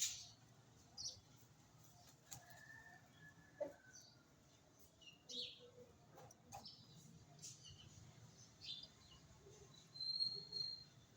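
Pet birds calling now and then: short scattered chirps with a few clicks and rustles, and a longer whistle a couple of seconds in and again near the end.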